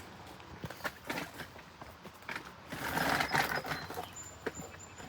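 Footsteps and handling noise: scattered knocks and clicks, then a stretch of rustling about three seconds in.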